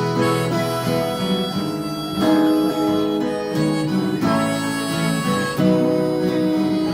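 Harmonica playing a melody of long held notes over acoustic guitar accompaniment: an instrumental break in a gentle gospel song.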